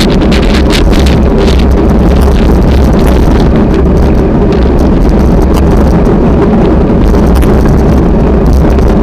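Strong wind buffeting the microphone: a loud, continuous rumbling roar with irregular gusty flutter.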